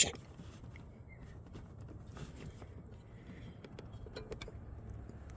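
1993 Ford Ranger's 3.0 V6 idling steadily, a misfire on one cylinder being traced. There are a few faint clicks about four seconds in.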